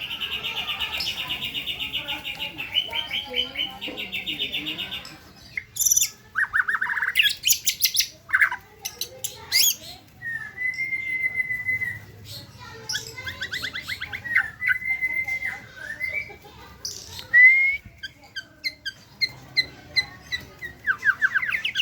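White-rumped shama (murai batu) singing a long, varied song. It opens with fast rattling trills for about five seconds, then moves to sharp chips and clear whistles, with steady held whistled notes about ten and fourteen seconds in. It ends with quick trills again.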